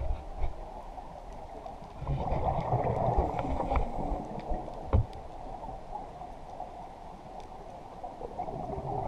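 A boat moving on the water, heard muffled: water sloshing and gurgling with low knocks. It grows louder for a couple of seconds about two seconds in, with one sharp knock near the middle.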